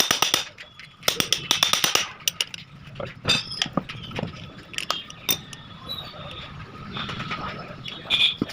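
Metal parts and hand tools clinking during gearbox work. Two quick runs of rapid clicking come in the first two seconds, then scattered single clinks.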